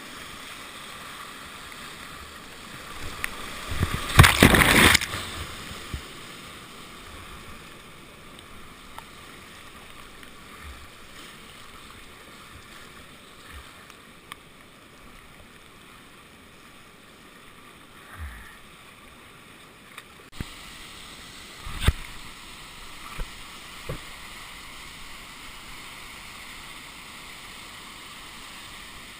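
Steady rush of fast river water, with a loud burst of noise about four seconds in and a few short knocks later on.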